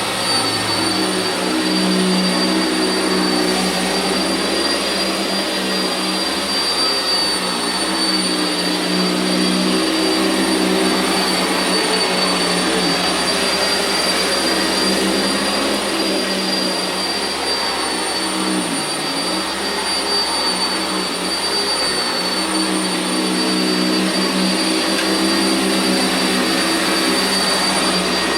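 Sanitaire SC679j upright vacuum running steadily over carpet. Its motor gives a high whine that dips slightly in pitch now and then.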